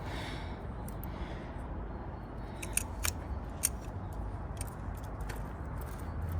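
A few short, sharp clicks and light knocks, bunched together about halfway through, as a motorcycle carburetor is pushed and worked up into its rubber intake boots, over a steady low hum.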